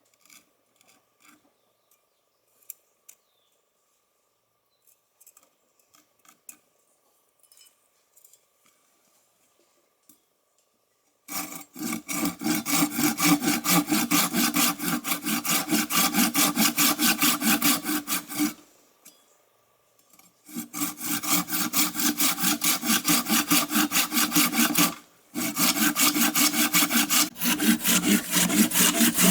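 Faint scattered taps, then about eleven seconds in a hand saw starts cutting through wood in quick, even back-and-forth strokes. The sawing stops for a couple of seconds, resumes, breaks off briefly once more and carries on.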